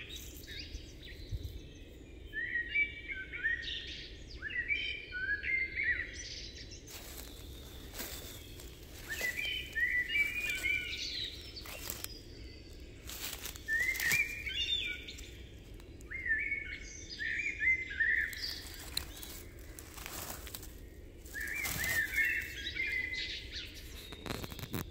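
A songbird singing short chirping phrases over and over, one every second or two, with scattered brief crackles or rustles in between.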